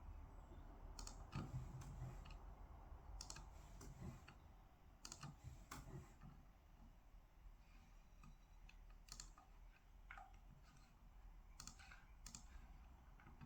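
Faint, sparse clicks, about ten spread unevenly over quiet room tone, typical of someone working at a desk.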